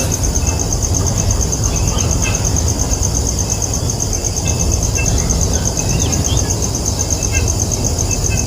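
Outdoor background sound: a steady low rumble under a fast, even, high-pitched pulsing, with a few short chirps scattered through.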